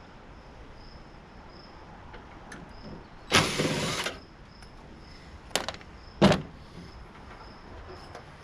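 Metal parts of a tankless water heater being worked loose during teardown: a loud scraping rasp lasting under a second, a little over three seconds in, then two sharp knocks close together.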